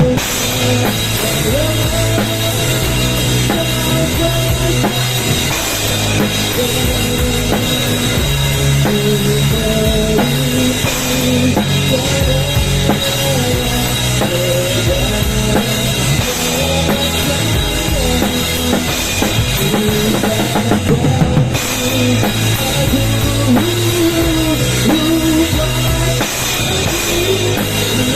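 Music with a drum kit and heavy bass, played loud and steady through a large PA sound system under sound check.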